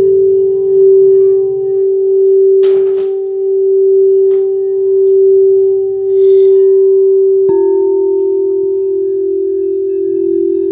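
Singing bowls ringing in a sound meditation: a steady, pure sustained tone that wavers gently in loudness. About two-thirds of the way through, another bowl is struck and a slightly lower tone takes over.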